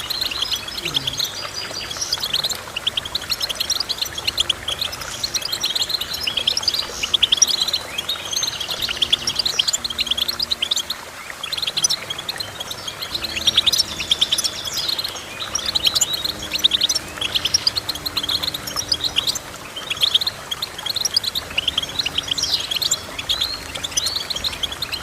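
A finch singing a long, rapid twittering song of quick high chirps and trills that runs on without a break.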